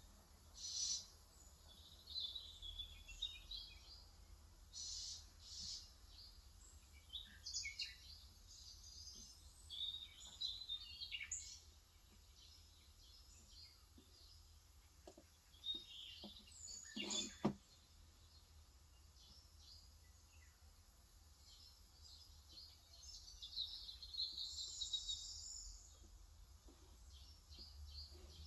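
Small birds chirping and twittering in short bursts, faint against a low background hiss. One sharp knock stands out about two-thirds of the way through.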